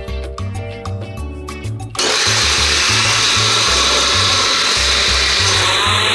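Salsa music with a steady bass beat. About two seconds in, a countertop blender starts suddenly and runs loudly and steadily, crushing ice and pineapple for a piña colada, with the music's bass still going underneath.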